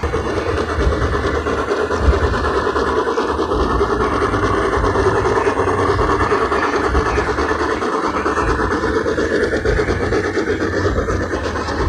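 Garden-scale model train running steadily along its track, the sound starting abruptly and holding loud and even throughout.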